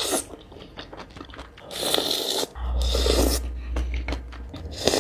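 Close-miked eating of squid and green mussels: wet chewing and mouth clicks, with a couple of longer noisy stretches about two and three seconds in.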